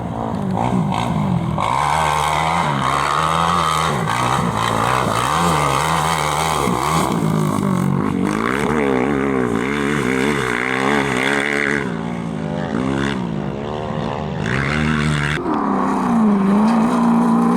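Racing engine revving hard and falling back again and again as it shifts and brakes through the slalom, with the sound changing abruptly three times.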